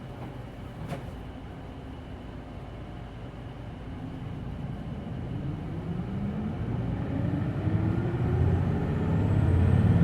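Hino Blue Ribbon City Hybrid bus pulling away from a stop, heard from inside the cabin: a short click about a second in, then the engine revs up, rising in pitch and getting louder over the last few seconds.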